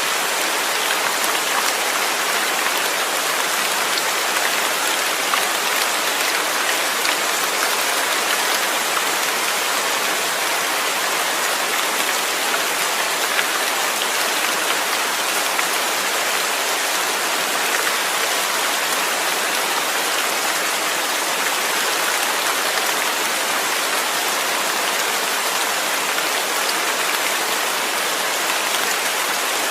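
Steady heavy rainfall, a dense, even hiss of drops falling on surfaces, with no change in strength.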